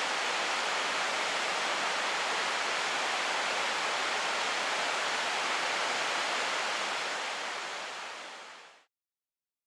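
Mountain stream rushing: a steady, even hiss of flowing water that fades out over the last couple of seconds to silence.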